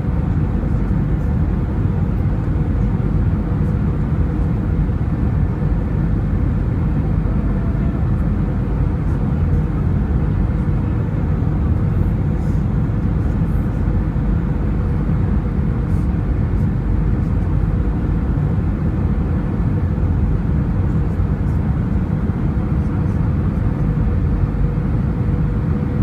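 Steady airliner cabin noise of engines and rushing air: a dense, even rumble heaviest at the low end, with a faint steady hum.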